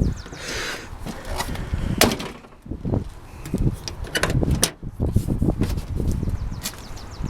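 Cab door of a 1992 Ford F350 pickup being worked while someone climbs out, heard as a string of knocks and clicks, with a loud knock about two seconds in and another cluster just before five seconds.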